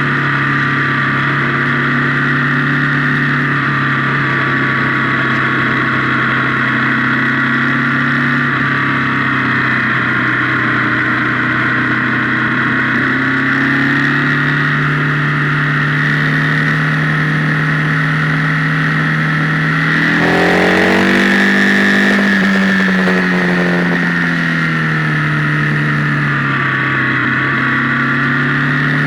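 Motorcycle engine running at a steady pitch, heard from the bike itself, with the sound heavily distorted by the camera's microphone. About twenty seconds in, the engine note rises as it is revved, then falls back to a steady run.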